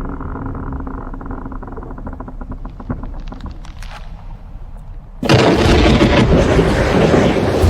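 Glacier ice cracking, sharp snaps coming faster and faster. About five seconds in, a sudden loud rumbling crash begins as ice collapses from the glacier front.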